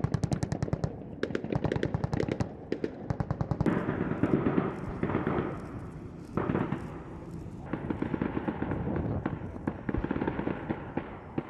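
Bursts of rapid automatic gunfire, about ten rounds a second, through the first two and a half seconds. Scattered further shots follow over a steady rumble.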